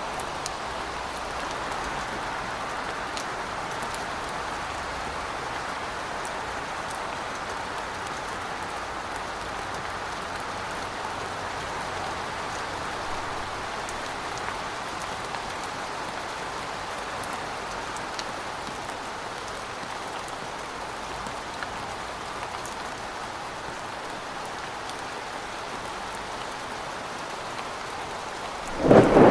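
Steady heavy rain falling, with scattered faint drop ticks. Just before the end a sudden loud clap of thunder breaks in and starts to roll.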